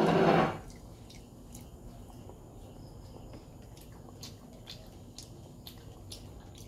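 A short loud burst of noise right at the start, then quiet with faint scattered clicks and smacks of a small child chewing French fries dipped in gravy.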